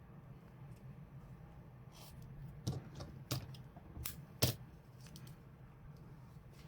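Light clicks and snips of small scissors and a crochet hook being handled while working yarn: about five short, sharp ticks between two and five seconds in, over a faint steady hum.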